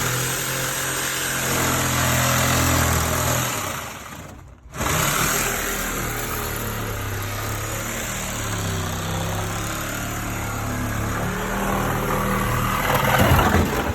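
Heavy diesel engine running under varying load, with noisy rattling above it. It drops out abruptly about four and a half seconds in, comes back at a lower, wavering pitch, and swells near the end.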